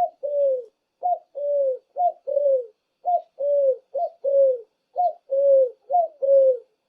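Dove cooing: a short higher note followed by a longer falling coo, repeated about once a second.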